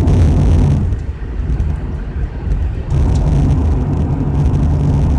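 Road and engine noise inside a car driving on the highway: a steady low rumble with a noisy haze above it. It eases for about two seconds, then comes back louder about three seconds in.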